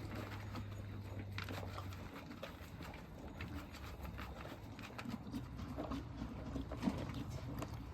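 Irregular light knocks and rustling of farm animals moving about, with a low steady hum during the first two seconds.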